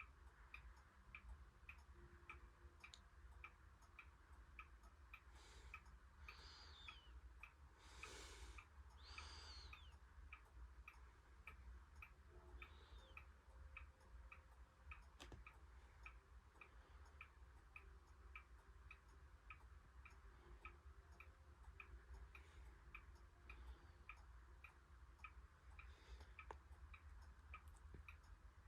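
Near silence: faint, even ticking at about three ticks a second over a low hum.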